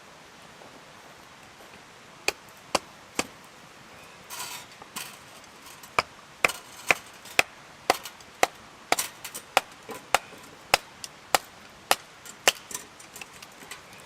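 Firewood being split for a campfire: a run of sharp wooden knocks, about two a second, with a short scraping split partway through.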